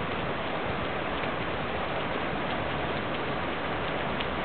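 Heavy rain falling steadily on a flooded street, an even hiss with a few sharper drop ticks.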